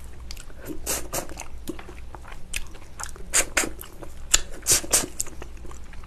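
Close-up chewing and biting of soft, gelatinous braised ox foot in spicy sauce: a string of wet, sticky mouth clicks and smacks, with louder clusters about three and a half and five seconds in.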